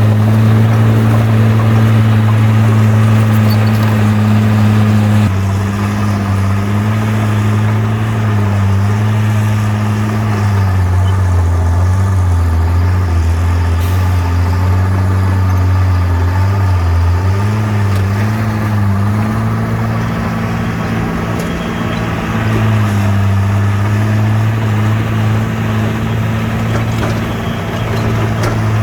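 A bulldozer's heavy diesel engine runs under load. Its steady drone drops slightly about five seconds in, then dips and rises in pitch as the revs change while it works.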